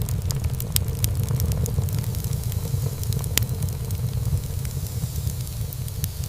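Wood fire burning in a fireplace: a steady low rumble of flames with frequent small crackles and pops of burning wood, one sharper pop about three and a half seconds in.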